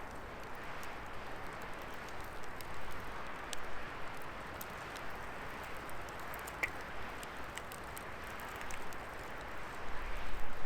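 Wood fire burning in a fire pit: a steady rushing hiss of flames with scattered sharp crackles and pops, one brief higher-pitched pop about two-thirds through. It grows louder and deeper near the end.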